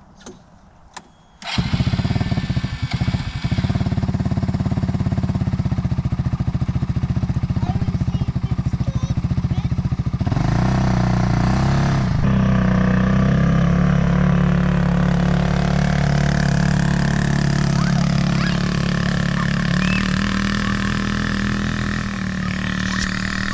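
Polaris RZR side-by-side engine comes in suddenly about a second and a half in and keeps running. About ten seconds in its note changes and settles into a steadier pitch.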